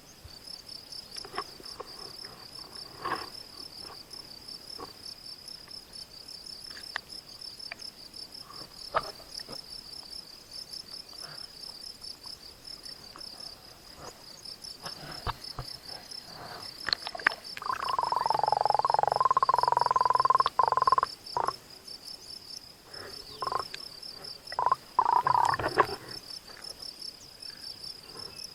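Night insects, crickets by their sound, trilling steadily in fast even pulses, high-pitched. Scattered clicks and knocks run through it, and a louder held sound lasts about three seconds past the middle, with shorter ones a few seconds later.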